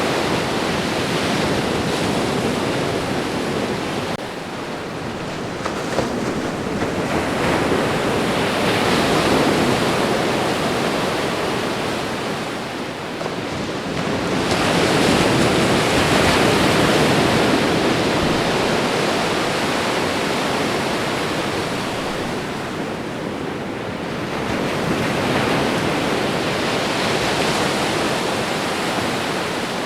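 Ocean waves breaking and washing onto a shore in a continuous hiss that swells and eases, with a stronger surge about halfway through.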